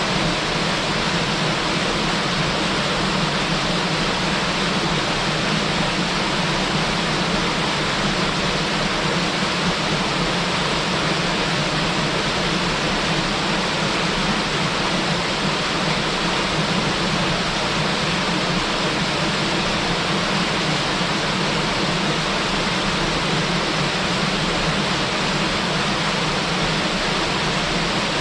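Small waterfall, water falling and splashing onto rock in a steady, unbroken rush.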